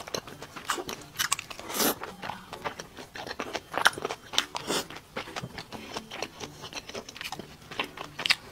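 Close-miked chewing of a mouthful of spicy boiled meat slices: irregular mouth clicks and smacks, with one louder noise a little under two seconds in.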